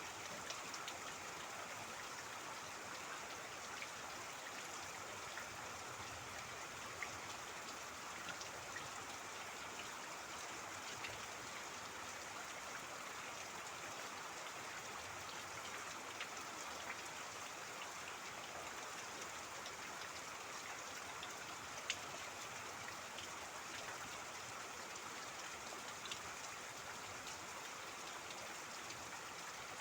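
Steady rain falling, with scattered louder drips ticking through it and the splash of running water.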